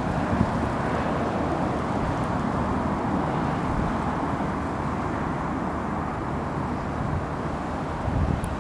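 Airbus A320 jet engines running, a steady rushing noise, with strong gusting wind buffeting the microphone.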